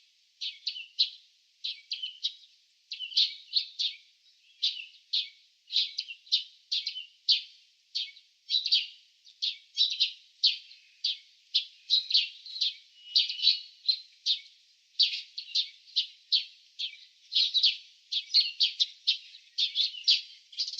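Small songbird chirping: quick high chirps, several a second, in short clusters that run on without a break.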